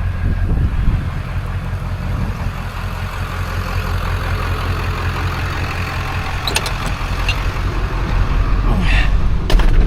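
A motor vehicle engine running steadily with a low hum, with a few short clicks about six and a half seconds in and near the end.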